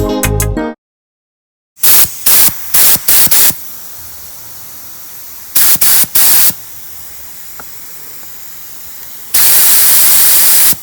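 Pneumatic spray gun spraying primer: hiss in short bursts, then a longer continuous spray near the end, over a steady fainter hiss of air.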